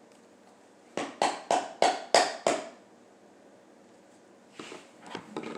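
A run of six quick, sharp knocks, about three or four a second, starting about a second in. Fainter rustling handling noises follow near the end.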